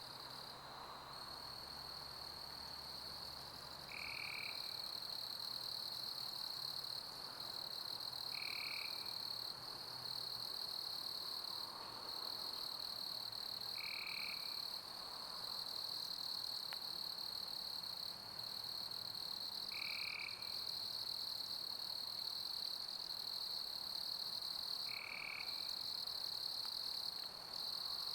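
Summer crickets chirping as a continuous high trill over a soft, even hiss of pink noise, with a short lower call repeating about every five seconds.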